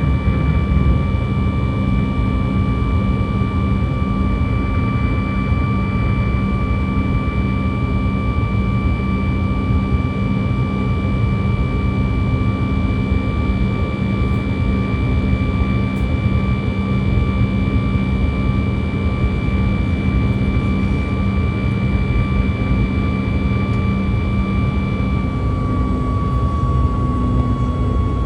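Boeing 737 MAX 8's CFM LEAP-1B jet engines running steadily as heard inside the cabin: a loud rushing noise with a steady high whine and a low hum. Near the end the engine tones shift slightly lower in pitch.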